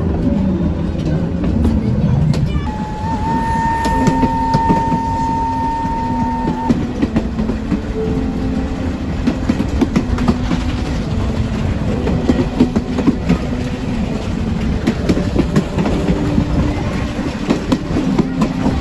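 Heritage train running along the track, heard from aboard: a steady rumble full of rattles and clickety-clack from the wheels. About three seconds in, a steady high tone rings out for about four seconds, then stops.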